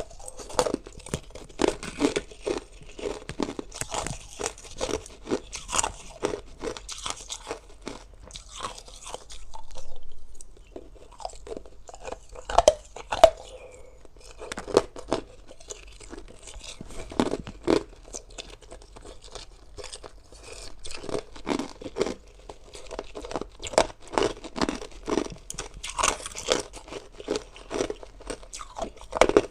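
A person biting and chewing hard ice: a dense run of sharp, irregular crunches, the loudest a pair of bites about thirteen seconds in.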